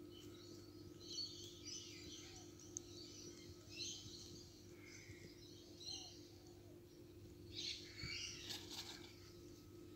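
Faint birds chirping and singing in many short, varied calls over a steady low hum.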